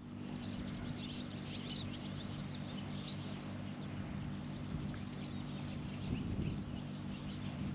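Birds chirping here and there over a steady low hum.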